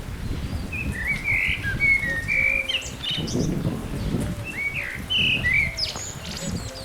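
A songbird singing a run of short chirps and quick slurred whistles, starting about a second in and stopping shortly before the end, over a low rumbling noise.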